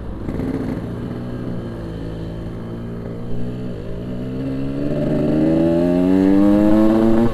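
Yamaha RX-King two-stroke single-cylinder motorcycle engine under way, holding a steady note and then rising in pitch over the last few seconds as it accelerates.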